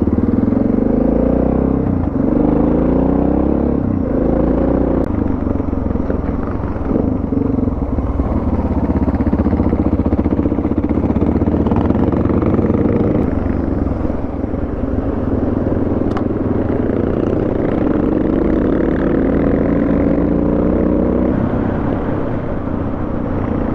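Suzuki DR650's single-cylinder four-stroke engine running under way, its revs rising and falling several times as it accelerates and shifts gears.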